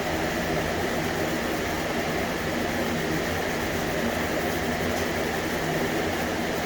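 Steady mechanical whir with a low hum, even and unbroken, with no separate strokes standing out.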